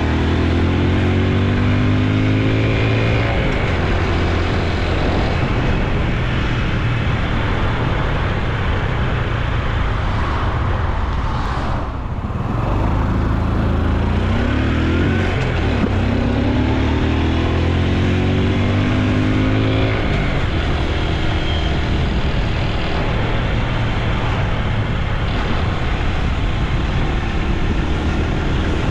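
Honda Super Cub C125's single-cylinder four-stroke engine and exhaust running under way. Its pitch rises through several pulls of acceleration, drops briefly about twelve seconds in, then settles to a steady cruise.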